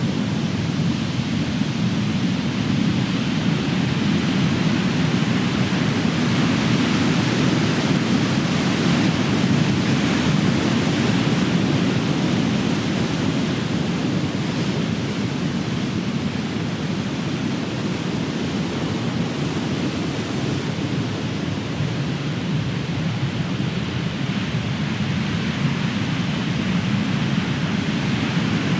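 Big ocean waves crashing: a continuous rush of surf that swells somewhat several seconds in and eases a little past the middle.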